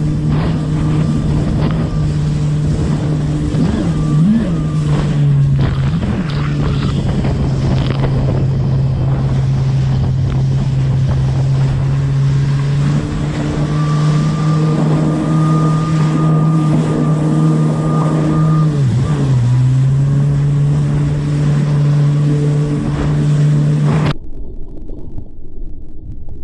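Kawasaki Ultra 300X jet ski's supercharged four-stroke four-cylinder engine running at a steady high pitch, with wind on the microphone. Its revs dip briefly and recover a few times. About 24 seconds in the sound cuts off abruptly, leaving only a quiet muffled rumble.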